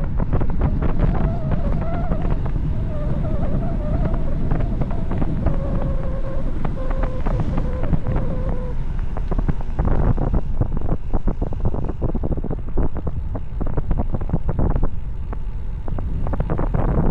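Heavy wind buffeting on the microphone of a bicycle descending fast downhill, a steady low rumble. For the first half, a wavering whine rides over it and fades out about nine seconds in.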